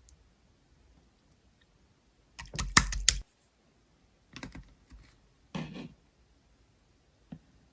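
Close-up clicking and rustling handling noises in three short bursts, the first the loudest, then a single light tap near the end.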